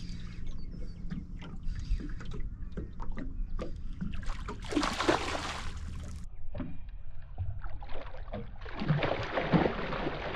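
Small knocks and clicks from gear on a fishing kayak, with two bursts of splashing water, the first about four and a half seconds in and the second near the end.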